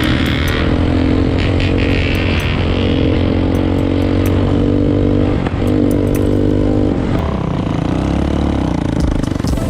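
A dirt bike's single-cylinder engine running at fairly steady revs, with its pitch shifting a few times as the throttle changes. This is typical of the 2020 Bashan Storm 250.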